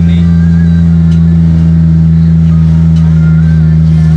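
Daihatsu Charade's engine and road noise heard inside the cabin while driving at a steady speed: a loud, constant low drone that does not change.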